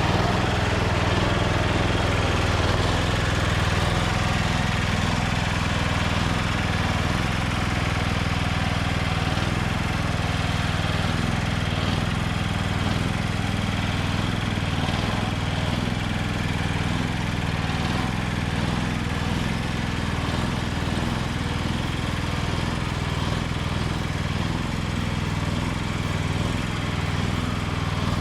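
Bolens H16XL garden tractor engine running steadily, with no change in speed.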